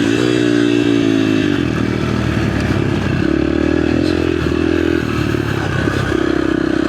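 Small off-road motorcycle engine running as it is ridden round a dirt track, its note rising and falling a little with the throttle.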